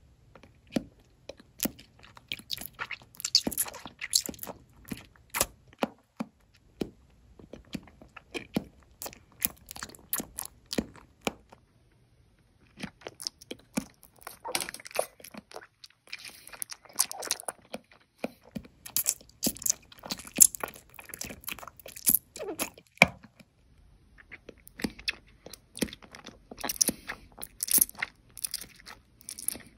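Close-miked biting and chewing of gummy jelly candies: runs of sharp clicks and crackles in several bursts, with short pauses between them.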